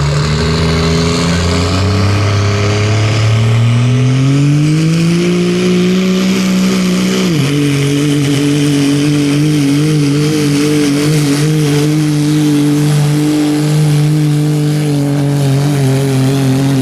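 Pickup truck engine at full throttle pulling a weight-transfer sled, its revs climbing steadily for several seconds. The engine pitch drops suddenly about seven seconds in, then holds high and steady.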